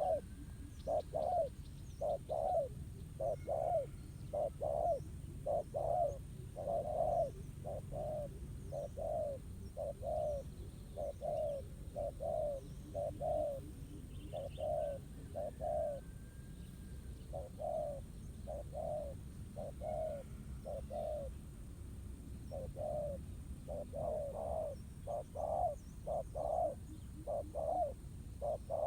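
Spotted doves cooing, a steady run of low coo notes in repeated phrases with a brief pause about halfway through. Small birds chirp faintly behind them.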